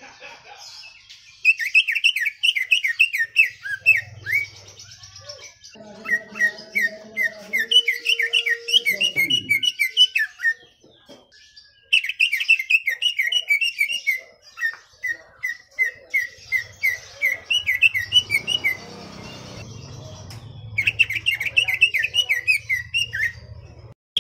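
Cucak ijo (green leafbird) singing in bouts of rapid, sharp repeated notes, each bout lasting a few seconds with short breaks between.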